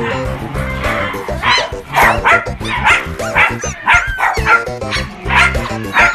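A dog barking and yipping in a quick series of short, high calls, about two a second, over background music.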